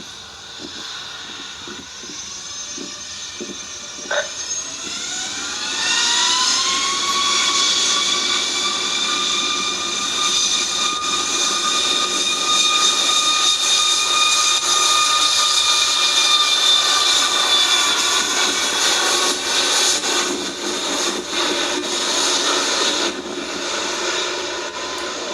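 Jet airliner engines spooling up: a whine rises over a couple of seconds, then holds steady and loud.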